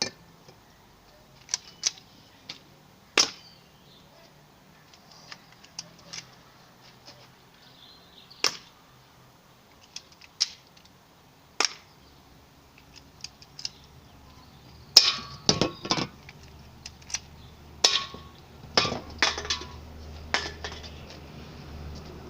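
BB guns firing, sharp snaps with metallic clinks of BBs hitting: single shots every few seconds at first, then a quicker run of shots and clinks in the second half.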